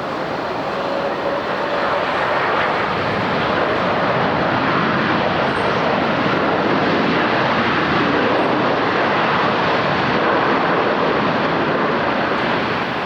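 Jet airliner passing close, its engine noise a steady loud rush that swells after about two seconds and eases slightly near the end.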